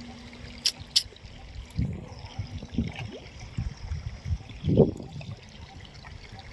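Water splashing and trickling in uneven surges, with a stronger splash near the end and two sharp clicks about a second in.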